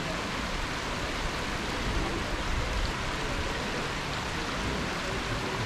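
Small river flowing, a steady rush of water.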